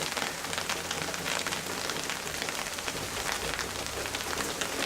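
Heavy rain falling steadily, a dense hiss with many close drop hits.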